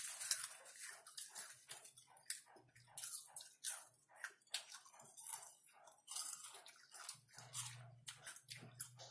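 Close-miked eating of popcorn: quick crunching and crackling bites, several a second, mixed with the rustle of hands picking through popcorn on a glass plate.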